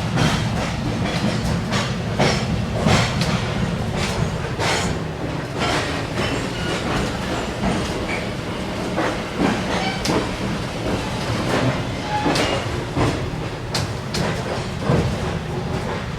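Railroad caboose rolling along the track: a steady low rumble with irregular clicks and clanks from the wheels and the car.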